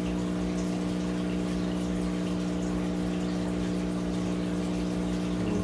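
Aquarium filter pump running: a steady hum with a constant wash of moving water.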